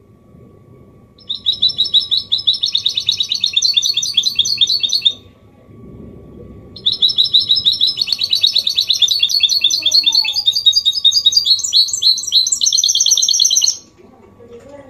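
Goldfinch mule (goldfinch hybrid) singing Málaga-copy-style song: two long phrases of rapid, closely repeated twittering notes, the first lasting about four seconds and the second about seven, with a short pause between them.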